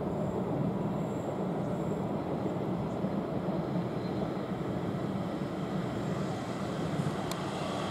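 A pair of South Western Railway Class 444 electric multiple units passing, a steady, even rumble of wheels on the rails.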